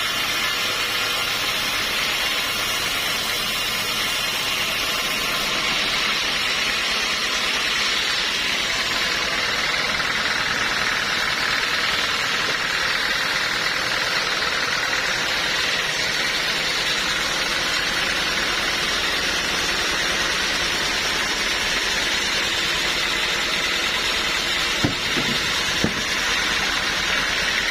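A sawmill's engine running steadily at a constant speed, not cutting, with two short knocks near the end.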